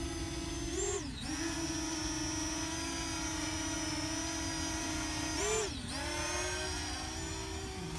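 Parrot Anafi quadcopter's electric motors and propellers whining steadily, twice briefly rising then dipping in pitch as the motors speed up and slow down.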